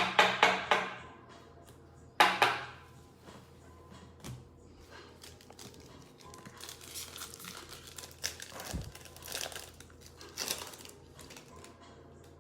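Plastic trading-card pack wrapper being torn open and crinkled. There are a few sharp, loud rips at the start and another about two seconds in, then softer crinkling later on.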